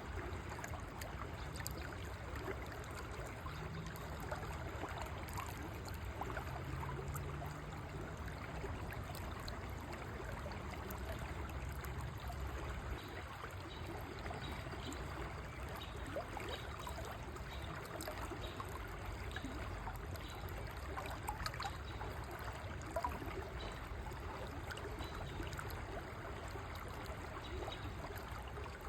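River water flowing steadily, babbling and trickling with many small splashes over a low rumble.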